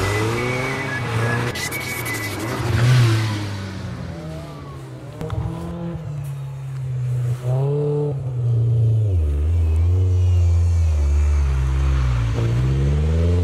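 Volkswagen Golf rally car engine revving up and down again and again as the car slides through corners on a snow track. It is fainter for a couple of seconds, then louder, and climbs steadily in revs near the end.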